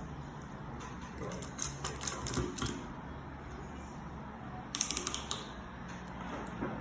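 Plastic Lego bricks being handled and reshaped: scattered light clicks, with a quick cluster of clicks about five seconds in.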